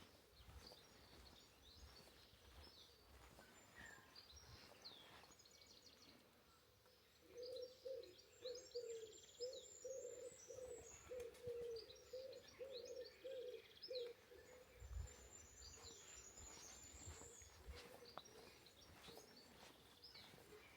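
Faint birdsong: many small birds chirping and singing, with thin high trills, and for several seconds in the middle a low call repeated about twice a second.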